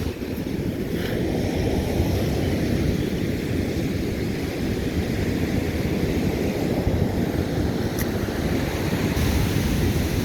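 Pacific Ocean surf breaking on the beach in a steady wash, with wind buffeting the microphone.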